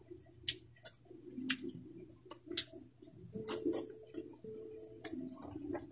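Close-up eating sounds: chewing with sharp wet mouth clicks and smacks, about seven of them at uneven intervals, as someone eats rice by hand.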